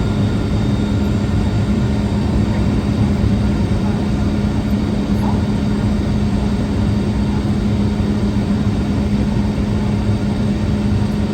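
Steady cabin noise of a Boeing 717 on the ground, its tail-mounted Rolls-Royce BR715 turbofans running at idle with an even hum and a steady low tone.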